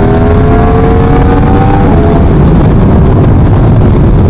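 2017 Yamaha R1's crossplane inline-four through a Leo Vince exhaust, under way with its note rising steadily as the bike pulls. About two seconds in the engine note drops away and a loud low rumble of wind on the microphone takes over.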